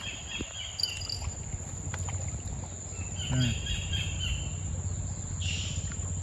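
Dawn chorus: a steady, high-pitched insect drone with scattered bird chirps, over a low rumble.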